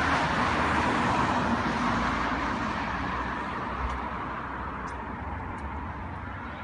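Street traffic noise that slowly fades, as of a vehicle moving away, with a few faint ticks in the second half. The motorcycle's exhaust is not heard.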